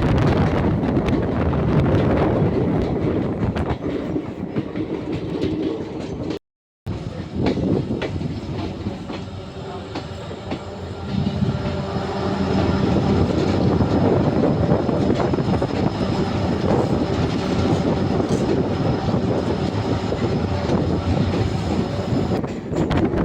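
A moving train running along the track: a steady rumble with the clickety-clack of wheels over rail joints. The sound cuts out for a moment about six seconds in.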